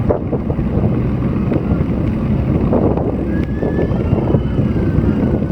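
Wind buffeting an action camera's microphone: a loud, steady low rumble, with typhoon winds gusting across the river cycling road.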